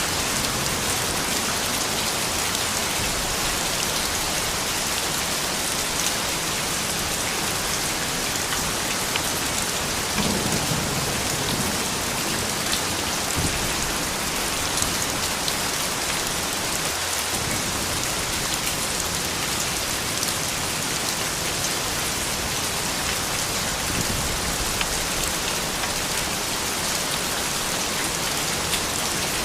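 Steady soft rain falling on surfaces, an even hiss dotted with the ticks of individual drops.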